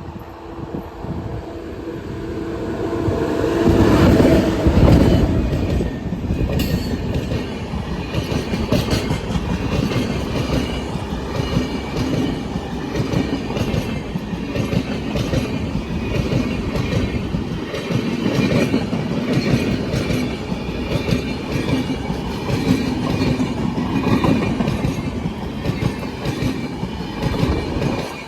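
Indian express train passing at high speed. A steady tone builds as the locomotive approaches and sweeps past about four seconds in. Then the coaches rush by with rapid wheel clatter over the rail joints.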